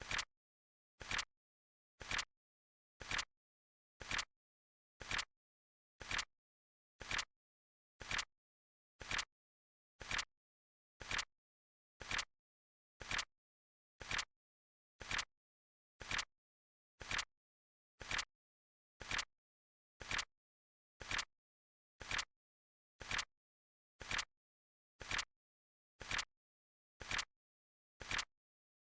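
Flip-clock timer sound effect: a short, sharp click once a second, evenly spaced, with silence between the clicks.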